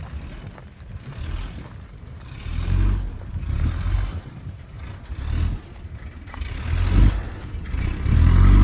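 Isuzu truck's engine revving in about five repeated surges under load as the truck tries to pull out of a spot where it is stuck.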